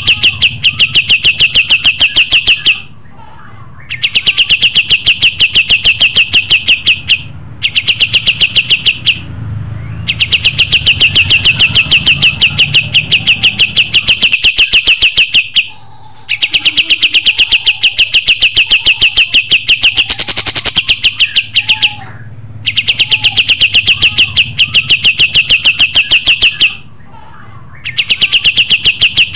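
Kapas tembak songbird singing hard: fast runs of sharp, evenly repeated high notes, each run lasting a few seconds, broken by short pauses of about a second.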